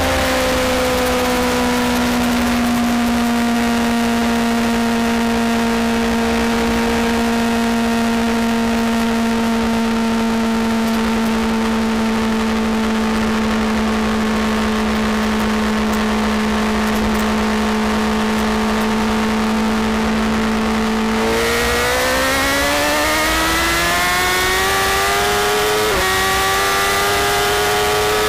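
Superbike engine holding steady high revs at speed over the rush of wind. About 21 seconds in, the pitch dips and then climbs steadily as the bike accelerates hard, with a brief drop a few seconds later as it shifts up a gear.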